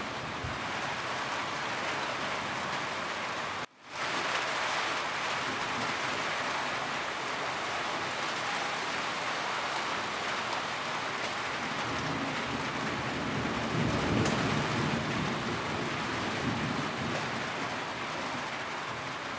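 Steady rain pattering on a roof. The sound cuts out for a split second a little under four seconds in. A low rumble swells up in the latter half.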